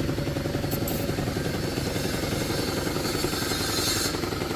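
Gilera DNA scooter engine idling steadily with a fast, even beat, which the owner calls quite good.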